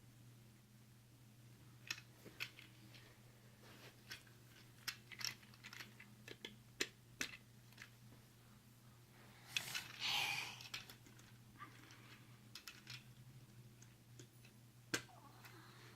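Toy building pieces being handled and fitted together: scattered light clicks and taps, with a longer rustling clatter about ten seconds in, over a faint steady hum.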